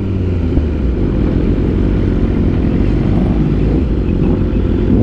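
Superbike engine running steadily at low revs, with a dense low rumble and no clear revs up or down.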